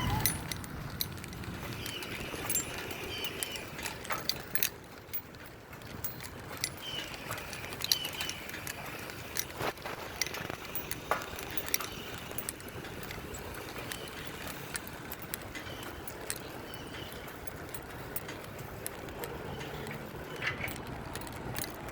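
Bicycle being ridden: scattered clicks and rattles from the bike over a steady hiss of tyre and wind noise.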